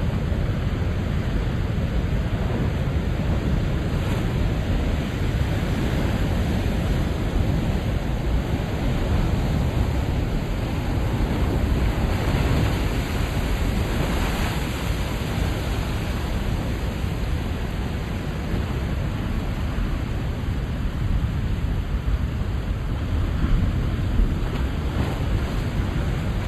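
Ocean waves surging and washing at high tide, a continuous noisy wash with a deep rumble, swelling as a larger wave comes in about halfway through. Wind buffets the microphone.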